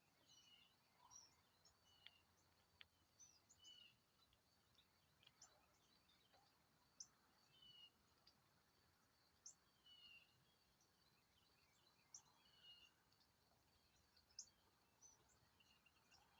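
Several small birds calling faintly. One short slurred call repeats every second or two, with scattered thin, high chips among them.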